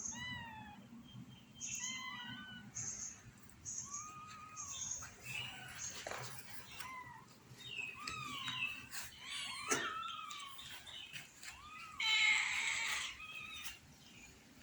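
Newborn kittens mewing: many short, high, falling cries, about one a second, with a louder, harsher cry about twelve seconds in.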